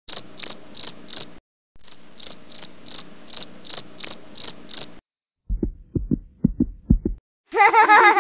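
Insect chirping: high, evenly spaced chirps about two and a half a second, in two runs with a short break. About five and a half seconds in, a run of low thumps follows, and near the end a wavering pitched sound.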